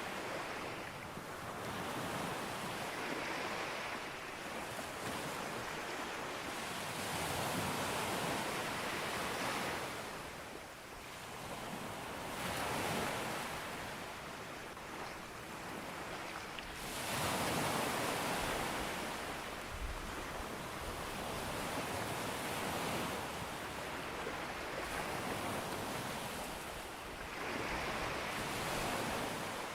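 Ocean surf breaking on a beach: a continuous wash of waves that swells and falls back every four to five seconds, the largest wave breaking a little past halfway.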